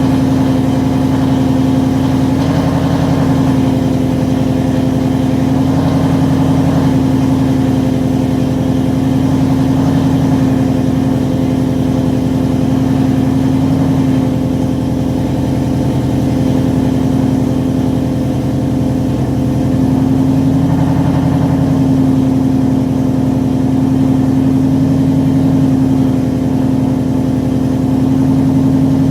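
Straight-piped 2017 Ford Mustang GT's 5.0 L V8, on long-tube headers with no catalytic converters, mufflers or resonators, idling steadily. The exhaust note swells slightly and settles back every few seconds, without any revving.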